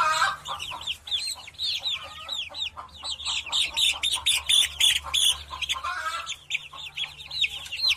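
Bird sound effect: many quick, high chirps, several a second, with a faint low hum underneath.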